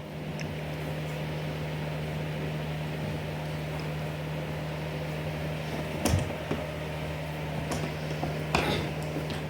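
Steady low hum of a running fan or household appliance, with two brief knocks about six and eight and a half seconds in.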